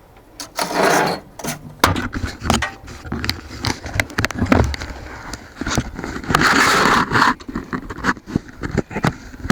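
Steel compound block being handled and set onto a mini lathe's cross slide: a run of metal clicks and knocks, with a scrape about a second in and a longer one around the seventh second as the block slides into place.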